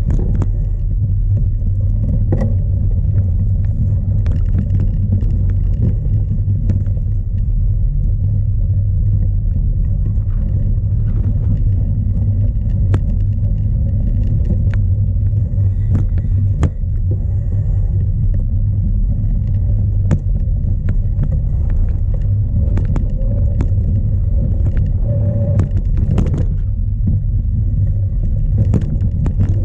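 Strong wind buffeting the microphone of a camera mounted on a cyclocross bike, a steady low rumble. Scattered clicks and knocks from the bike rattling over rough ground run through it.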